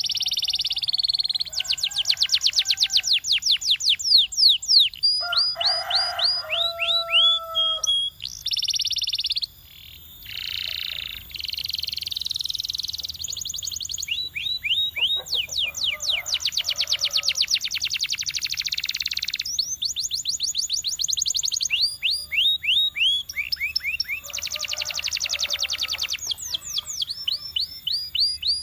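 Domestic canary singing a long, continuous song: fast trills of repeated downward-sweeping notes, buzzy rolls, and a few lower held notes, with only brief breaks between phrases.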